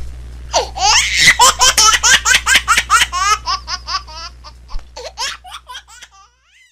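High-pitched laughing: a rapid run of short 'ha' bursts, several a second, that starts about half a second in and trails off, fading away near the end.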